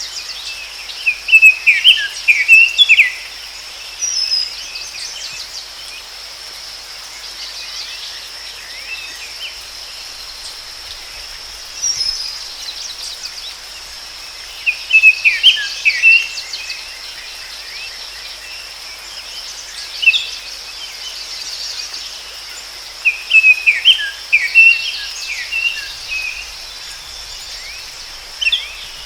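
A songbird singing short bursts of rapid chirps every several seconds, with single call notes between, over a steady high drone of insects such as crickets.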